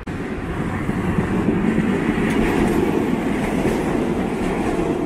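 A passenger train passing close by, its wheels giving a steady rumble on the track with a few faint clicks. The sound builds a little over the first second, then holds.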